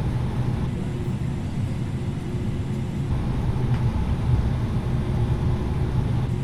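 Steady cabin noise inside an Airbus A330-900neo with Rolls-Royce Trent 7000 engines: a low, even rumble with a faint steady hum over it.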